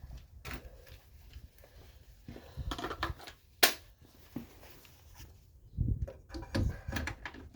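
Scattered clicks and clunks of tools being handled and set down, with one sharp loud click about three and a half seconds in and a few heavier knocks near the end.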